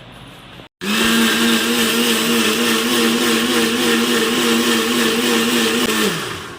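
Electric kitchen mixer grinder starting about a second in and running at a steady high speed, then switched off and winding down near the end.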